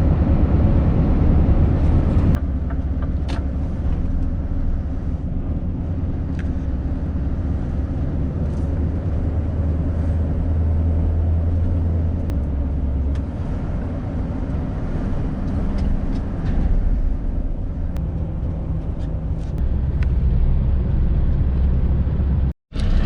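Scania S650 lorry's V8 diesel running steadily on the road, a deep low drone with road noise over it. The drone drops a little a couple of seconds in and shifts again about halfway, and the sound cuts out briefly near the end.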